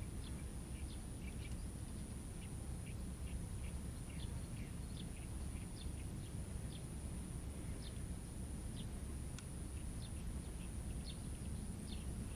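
Birds chirping outdoors: many short, scattered chirps over a steady low rumble.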